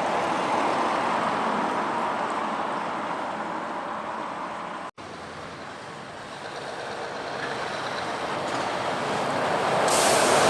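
Passing truck traffic: a steady rush of engine and tyre noise that fades away, breaks off for an instant about five seconds in, then builds again as another vehicle approaches.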